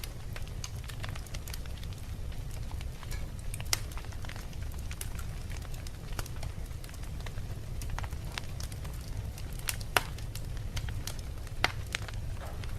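Wood fire burning with a steady low rumble and scattered sharp crackles and pops of the logs, three louder pops about a third of the way in and near the end.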